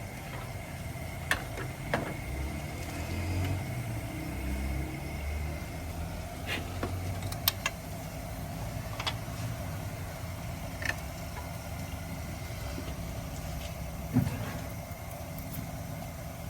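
An engine running steadily in the background, with a few sharp metallic clinks of tools on metal scattered through.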